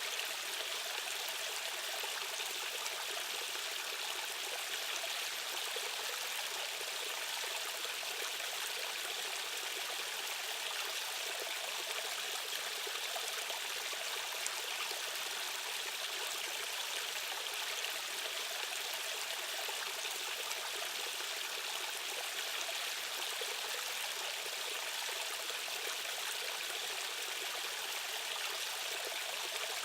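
Rushing stream water: a steady, even rush that stays the same throughout, with little deep rumble.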